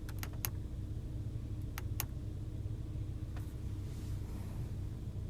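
Sharp clicks of cabin switches being pressed, about five of them, the last two around two seconds in, over a steady low hum of the idling car heard inside the cabin.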